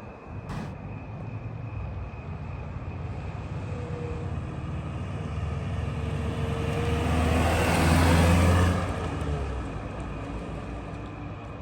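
1987 Toyota pickup driving past: engine and tyre noise grow louder to a peak about eight seconds in, then fade with a slight drop in pitch.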